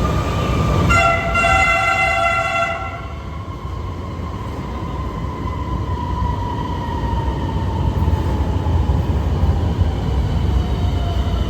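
MRT-3 electric train sounding a horn chord of several tones for about two seconds, starting about a second in. Over the low rumble of the train running on the rails, a motor whine slowly falls in pitch.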